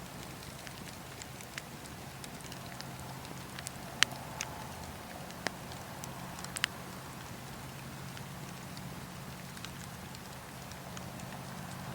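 Campfire burning with a steady hiss, broken by scattered sharp crackles and pops from the wood, the loudest pop about four seconds in.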